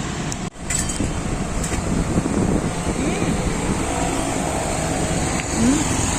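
Steady road traffic noise from passing vehicles, dipping out briefly about half a second in.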